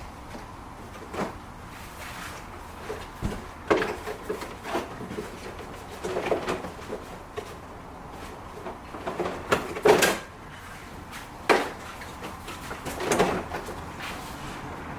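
Irregular clicks, knocks and clunks of hands and tools working on car body parts, about a dozen separate strikes with the loudest about ten seconds in.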